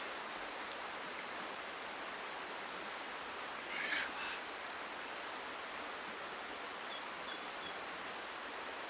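River flowing steadily, a constant rushing hiss. A brief rustle about four seconds in, and a bird chirping a few short high notes near seven seconds.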